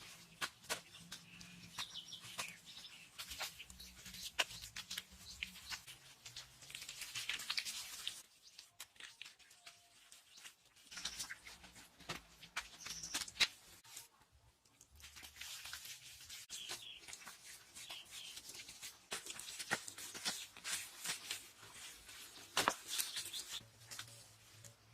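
Irregular rustling and scraping, dotted with light clicks and knocks, pausing for a few seconds a little before the middle.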